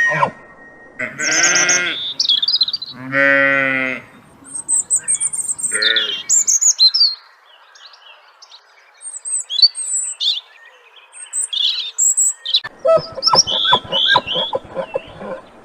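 Animal calls: three pitched calls in the first six seconds, two of them long and wavering, then many birds chirping and twittering, busier near the end.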